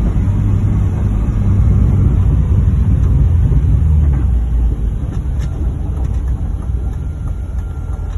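BMW's M52B28 2.8-litre straight-six engine accelerating hard, a loud low rumble that eases off about four and a half seconds in.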